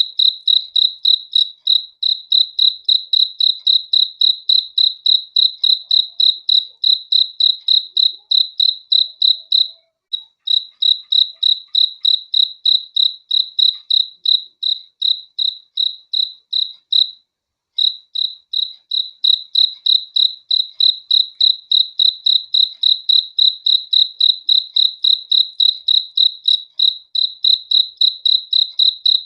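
A cricket chirping: short, high-pitched chirps repeated in a steady rhythm of about three a second, breaking off briefly twice, about a third of the way in and just past halfway.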